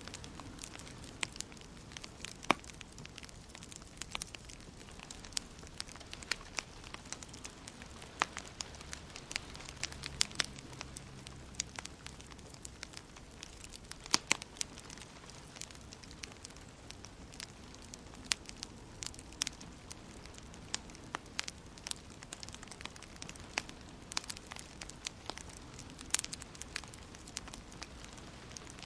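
Wood fire in a fireplace crackling, with irregular sharp pops and snaps over a soft steady hiss of burning.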